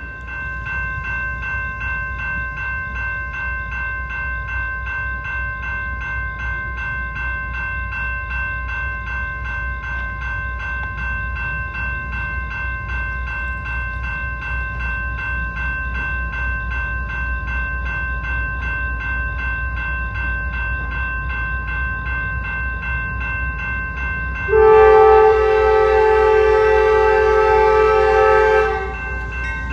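Locomotive horn sounding one long blast of about four seconds near the end. Under it, a low steady rumble of a passing train and a steady high ringing with a fast regular beat run throughout.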